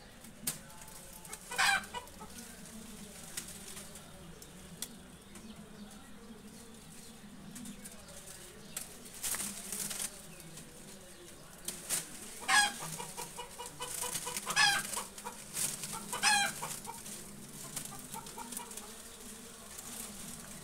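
Bird calls: a sharp, rapidly pulsed squawk about two seconds in, then a cluster of three more between about twelve and seventeen seconds in, joined by a quick run of clucking pulses, over a steady low background.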